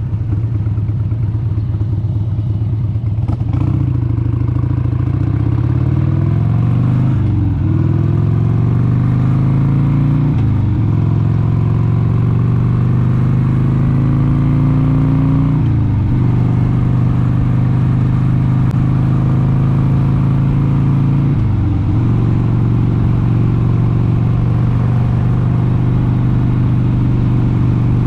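Harley-Davidson 883 Sportster's air-cooled V-twin engine under way, its note climbing as it accelerates from about three seconds in. Four brief dips in pitch follow a few seconds apart, after which it holds a steady cruising note.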